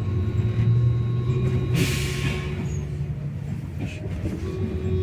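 Inside a MAZ-215 articulated city bus: the engine drones steadily under way, with a loud burst of air hiss about two seconds in, typical of the bus's compressed-air system venting.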